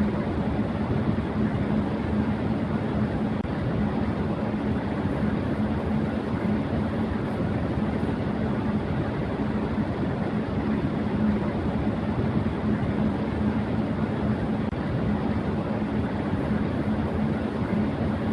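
Electric fan running at high speed: a steady rush of moving air with a constant hum underneath.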